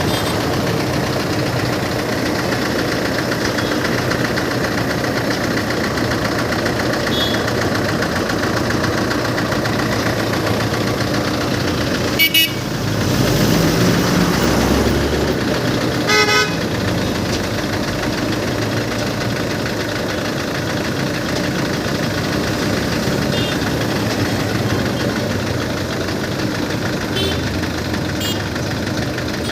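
An engine running steadily, with two short horn blasts about four seconds apart midway through and a louder low rumble between them.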